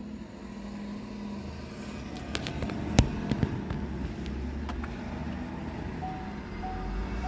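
Steady low hum of a 2018 Chevrolet Cruze's engine running, with a few sharp clicks about two to five seconds in, the loudest about three seconds in. Near the end a short beeping chime starts repeating.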